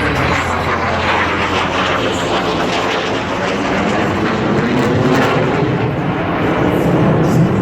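F-22 Raptor jet fighter flying past, a loud continuous rush of jet engine noise whose tone sweeps slowly as the aircraft passes.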